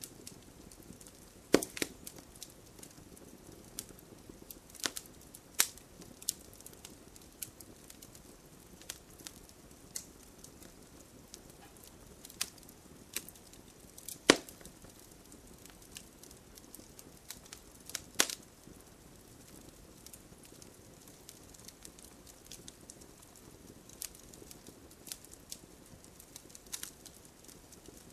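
Wood fire burning with a soft hiss and irregular sharp pops and crackles, a few louder snaps standing out among the smaller ticks.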